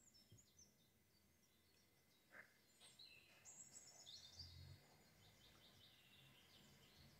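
Near silence with faint, high, twittering bird chirps from about three seconds in.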